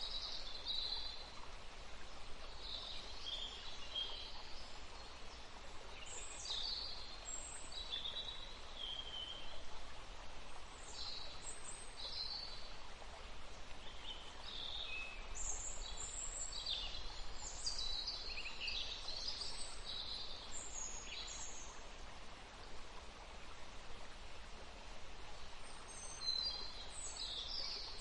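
Several songbirds singing and chirping in quick, high phrases over a steady background hiss. The calls thin out for a few seconds near the end, then start up again.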